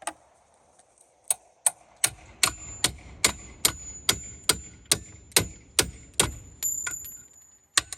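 A hammer striking metal in a steady run of sharp blows, about two and a half a second, each leaving a high metallic ring. The blows are knocking a trim cylinder loose from a Mercruiser sterndrive's outdrive.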